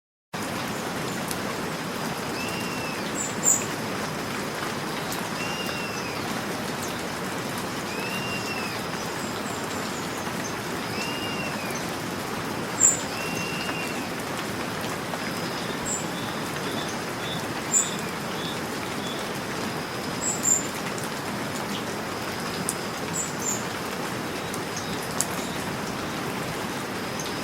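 Steady rain with birds calling over it: one bird repeats a short arched chirp every two to three seconds, and sharp high chirps stand out now and then as the loudest sounds. The rain starts abruptly just after the beginning.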